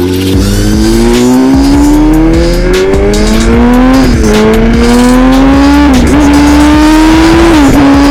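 BMW S1000RR inline-four with a de-cat titanium Austin Racing exhaust and a remap, accelerating hard. The engine note climbs steadily and drops briefly three times as it shifts up, about four, six and nearly eight seconds in.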